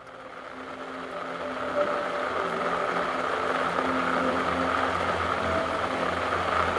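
Steady heavy rain, a dense even hiss, fading in over the first second or two and then holding level.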